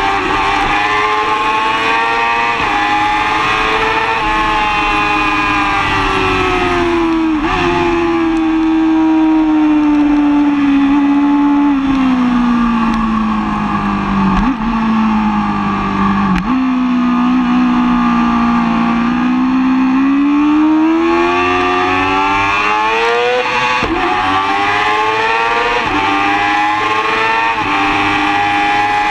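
2005 Yamaha R6's inline-four engine under way on track: the note falls as the bike slows, stays low for a long stretch with a couple of brief jumps in pitch, then climbs steadily, drops sharply once about three-quarters through, and climbs again.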